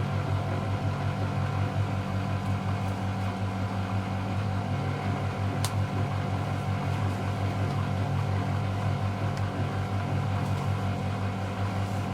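Miele Novotronic W715 washing machine running with a steady motor hum. A single sharp tick comes about five and a half seconds in.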